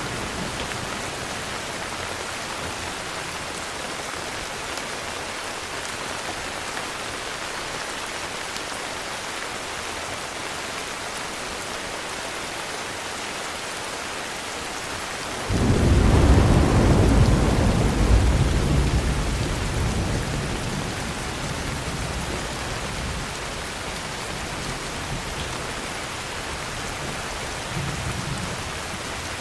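Steady heavy rain falling. About halfway through a clap of thunder starts suddenly and rolls on as a deep rumble for several seconds before fading back under the rain.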